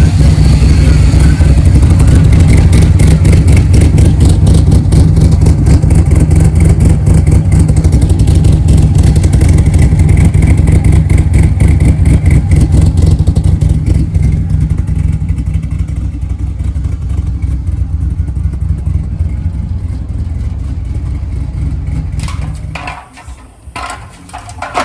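Loud vehicle engine running hard with a rapid pulsing exhaust, easing off over the second half and then stopping suddenly near the end.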